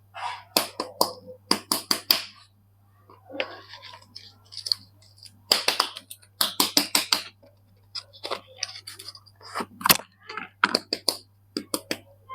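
Soap packaging being unwrapped by hand: crinkling and crackling in short bursts, with sharp clicks and brief pauses between them.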